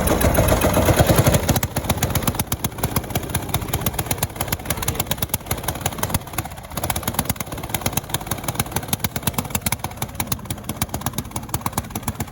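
Single-cylinder Briggs & Stratton lawnmower engine running in fast, even firing pulses. It is loudest for the first second or so, then settles to a steady, slightly uneven run.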